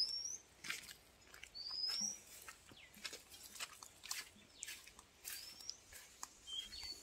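A bird giving short rising chirps, several times with a quick pair near the end, over light rustling footsteps through dry grass and scrub.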